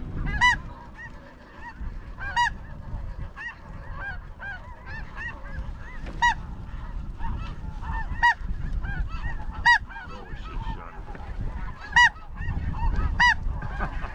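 A flock of snow geese calling, many high, short honks overlapping and repeating throughout, over a low rumble of strong wind on the microphone.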